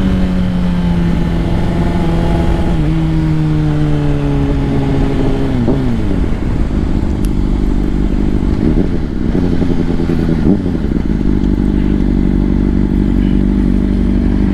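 Sport-bike inline-four engine through a Two Brothers full exhaust, pulling at fairly steady revs while riding. The pitch sinks slowly as the bike slows, jumps in a few quick throttle blips around the middle, then holds steady.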